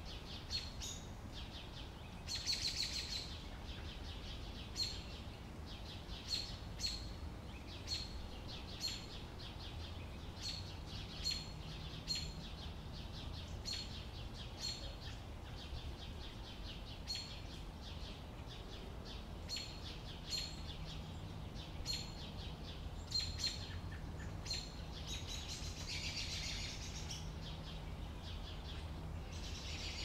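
Forest songbirds calling: a short, sharp high call note repeated irregularly about once a second, with a few longer bursts of song, over a steady low background rumble.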